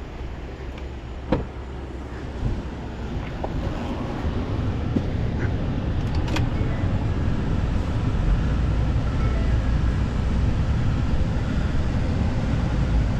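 Low rumble of a motor vehicle that grows steadily louder from about four seconds in, with a couple of sharp knocks.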